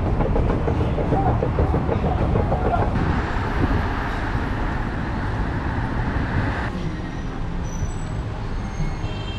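Train running on rails: a steady, loud rumble of wheels and carriage noise, with a rushing hiss that swells for a few seconds in the middle and then drops off.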